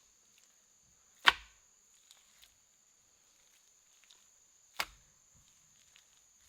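Two sharp blows on wood a few seconds apart, like a tool chopping or knocking timber, the first one louder. A steady high-pitched drone runs beneath them.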